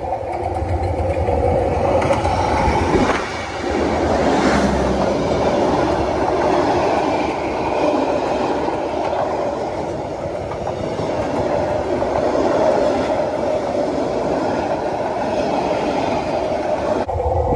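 Diesel-hauled passenger train passing close by: the locomotive's engine rumbles past in the first few seconds, then the coaches' wheels rumble and clatter steadily on the rails. It cuts suddenly near the end.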